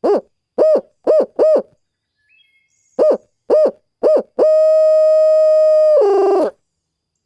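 Brute Hoot owl hooter blown to mimic a barred owl's 'who cooks for you, who cooks for you all' cadence: four short hoots, a pause of about a second, three more, then a long held final note that drops in pitch and rolls at its end.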